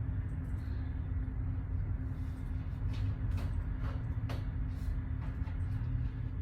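Steady low rumble of an idling car engine with a constant hum, and a few faint clicks now and then.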